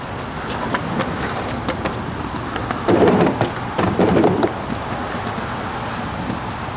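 Skateboard wheels rolling on wet pavement, with scattered clicks and two louder rough stretches about three and four seconds in.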